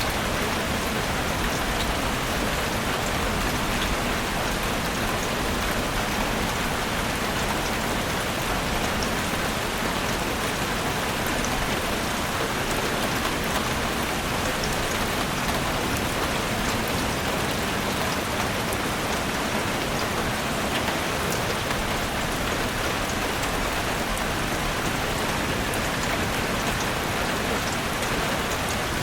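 Heavy rain falling steadily, a dense even hiss of drops with fine scattered patters.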